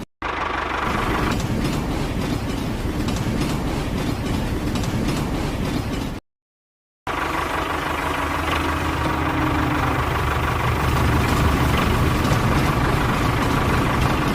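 Engine running with a fast, even knocking beat. It cuts to silence for under a second about six seconds in, then comes back heavier and lower toward the end.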